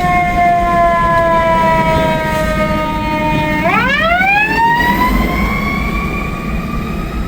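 Fire truck siren sounding steadily, its pitch sinking slowly for a few seconds, then climbing quickly again about halfway through and holding high, over a low rumble of engine and traffic.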